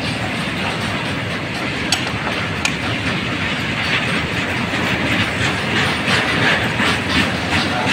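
Railway tank wagons of a freight train rolling past close by, a steady rumble of steel wheels on rail with sharp clacks as the wheels cross rail joints, coming more often in the second half.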